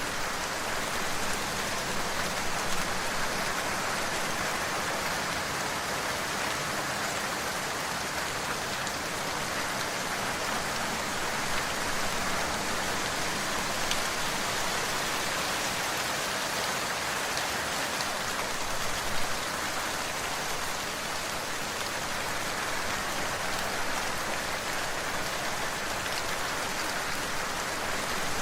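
Steady rain falling, an even hiss with occasional louder drops.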